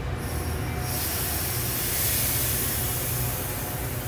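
Train running close by: a steady low rumble, with a hiss that sets in just after the start, is loudest about two seconds in and thins out near the end.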